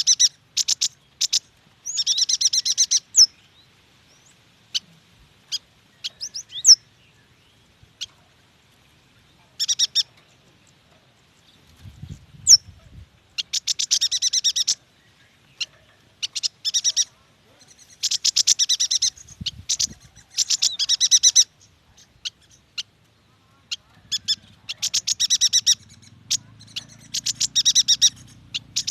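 Yuhina singing: bursts of rapid, high chattering chirps, each a second or two long, with single sharp high notes in between.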